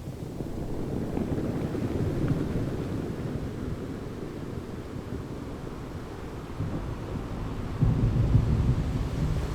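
Wind and water ambience: a low, noisy rumble of wind on the microphone over waves, growing suddenly louder about eight seconds in.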